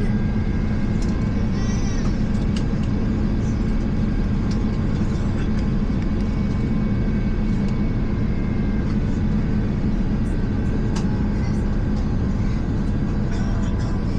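Steady rumble of an Airbus A350's Rolls-Royce Trent XWB engines and airflow heard inside the passenger cabin, with a low hum and a few small clicks and rattles.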